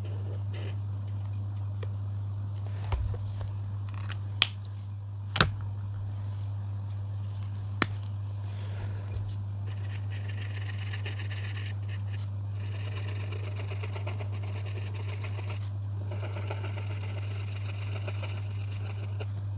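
Coloring strokes scratching on paper, coming in stretches from about halfway through, over a steady low hum, with a few sharp clicks in the first half.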